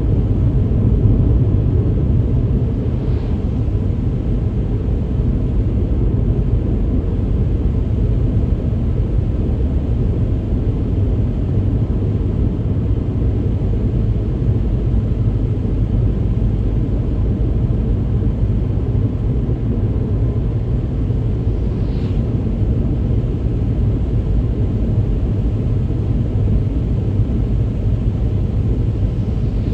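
Steady low rumble of a car driving on a rain-soaked road, tyre and road noise. Two faint brief swishes come through, about three seconds in and again near the twenty-two-second mark.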